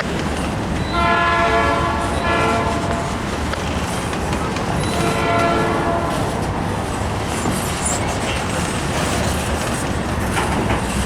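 Diesel freight locomotive horn sounding three blasts, the third the longest, over the steady low rumble and clatter of a slow-rolling freight train.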